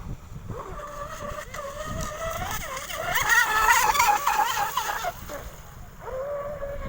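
Electric motor of a 6S RC outrigger boat whining, its pitch rising and falling with the throttle. It peaks loudest and highest around the middle, then settles into a steady lower whine near the end.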